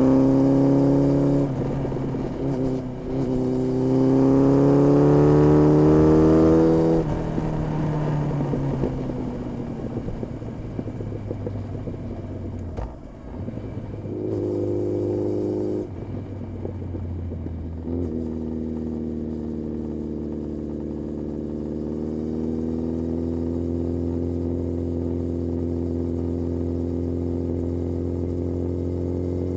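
Honda CB1300S four-cylinder engine through an Ixrace aftermarket exhaust, revving up, dropping briefly about a second and a half in, then revving up again before the revs fall away. A short burst of throttle comes around the middle, then the engine runs steadily at low revs with the pitch slowly rising.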